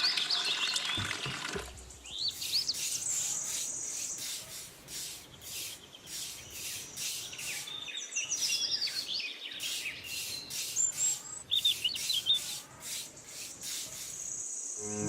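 Small birds chirping in short, repeated calls, over a rhythmic rubbing or scraping at about two strokes a second that stops near the end.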